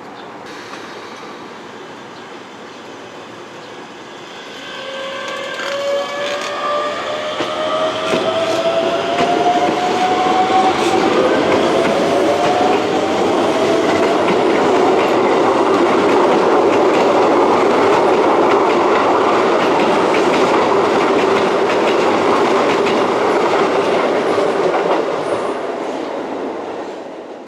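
Keisei electric train pulling through the station: the traction motors whine, rising in pitch as it gathers speed. This is followed by a loud steady rumble and clatter of wheels over the rail joints, which cuts off abruptly at the end.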